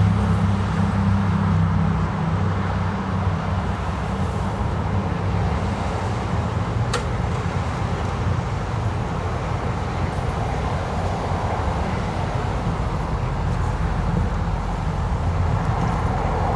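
Classic car engine running with a low rumble, strongest in the first two seconds and then settling into a steadier, slightly quieter drone. A single sharp click comes about seven seconds in.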